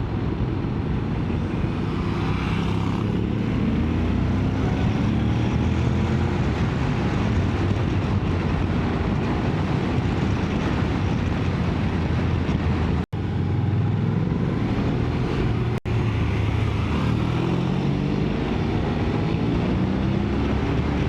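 Motorcycle engine heard while riding, its pitch rising and falling over and over as the rider accelerates and shifts through the bends. The sound drops out twice for a split second.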